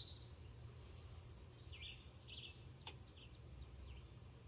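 Faint songbird calls: quick runs of short, high chirps, with a single sharp click about three seconds in, over a faint low rumble.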